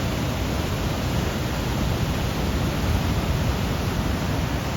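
Waterfall on the River Tees: a loud, steady rush of falling water pouring over rocks.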